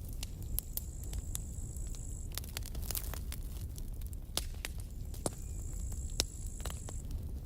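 Wood campfire crackling, with scattered sharp pops over a low steady rumble. A thin high whistle sounds twice, each time for about two seconds, at the start and again after about five seconds.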